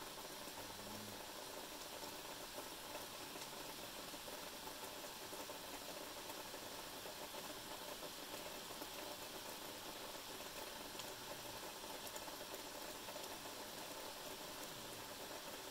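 Steady rain falling outside, a faint, even hiss.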